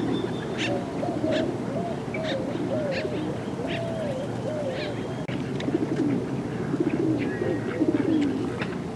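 A group of park birds calling: many low, wavering calls overlapping throughout, with short high chirps scattered among them.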